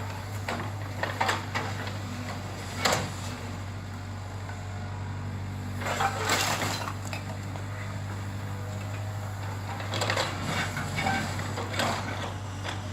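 Bungalow demolition: bursts of crunching and clattering as debris breaks and falls, several times, over a steady low engine hum.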